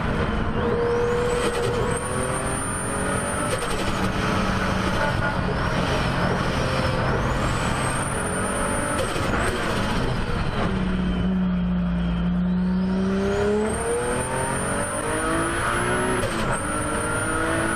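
Turbocharged car engine revving under boost. A high turbo whistle rises as the turbo spools, holds, and cuts off sharply three times when the throttle closes.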